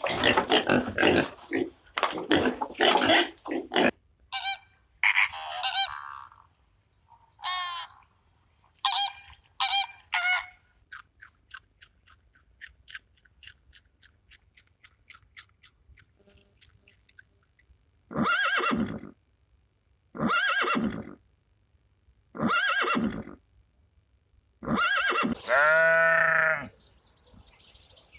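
A run of different animal calls, one after another: dense grunting for the first few seconds, then a few short calls, a rapid clicking trill, and near the end five loud drawn-out calls, the last one longer and falling in pitch.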